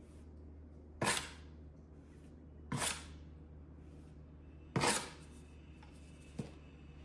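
Steel trowel knocking and scraping against stone while tile adhesive is spread and the excess cleaned off; four sharp clacks about two seconds apart, the last one softer.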